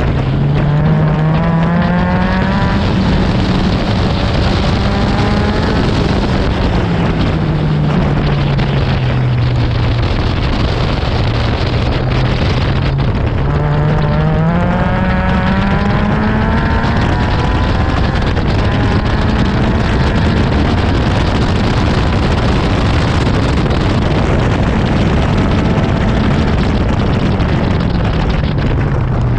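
Honda K24 inline-four engine of an Exocet running hard on a track lap, its revs climbing steadily near the start and again about halfway through, then dropping away as it slows, over a steady rush of wind and road noise.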